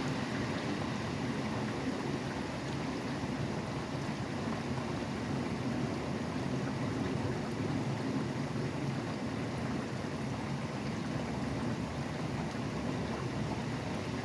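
Steady rain falling, blended with a continuous low hum of highway traffic.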